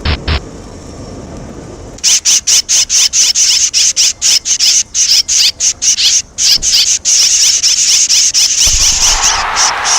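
Red-rumped swallows calling: a rapid, loud run of high-pitched chirps, several a second, starting about two seconds in, after a few sharp clicks at the start.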